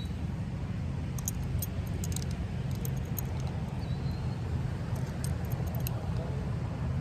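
Light metallic clicks and clinks of skateboard parts being handled while wheels are fitted onto newly mounted trucks. A steady low hum runs underneath.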